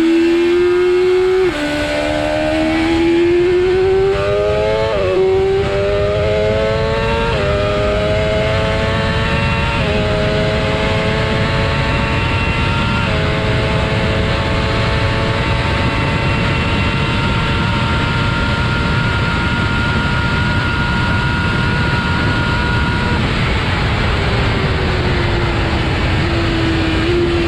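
BMW S1000RR sport bike's 999cc four-cylinder engine accelerating hard through the gears. Its pitch climbs and drops back at each of about six upshifts, then holds a steady high note at speed for around ten seconds before falling as the bike slows near the end.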